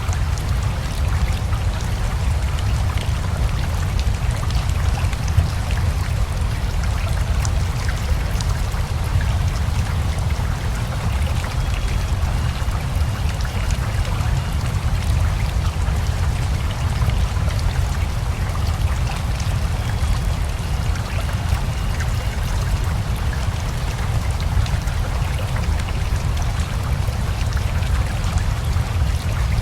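Steady rain together with a flowing river: an even, unbroken wash of water noise with a deep low rumble and many small drop ticks throughout.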